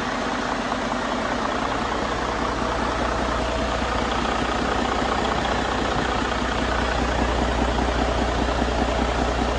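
2014 Detroit Diesel DD15 14.8-litre inline-six diesel engine idling steadily, getting slightly louder in the second half.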